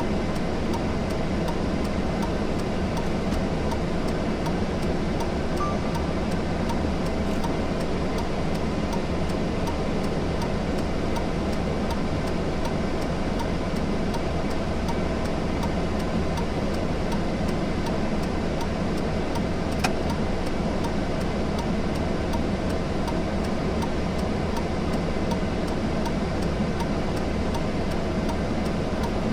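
Steady vehicle road noise that holds unchanged throughout, with one small click about twenty seconds in.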